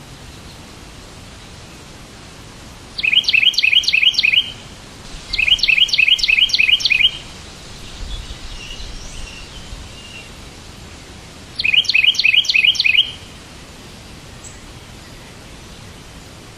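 A bird calling in three bursts of about six quick, repeated chirps each, the first about three seconds in, the second just after it and the third near the end, with a few softer chirps between. A steady hiss runs underneath.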